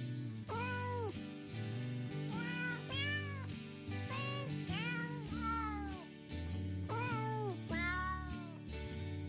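A cat meowing over and over, about a dozen short meows that rise and fall in pitch, over background music with low notes that change in steps.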